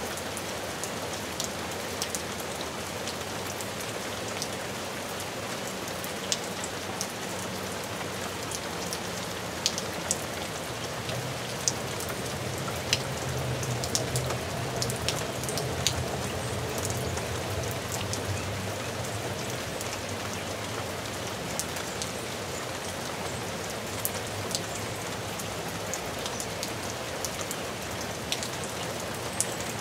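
Steady rain falling, with individual raindrops striking a surface as scattered sharp ticks over the even hiss of the downpour.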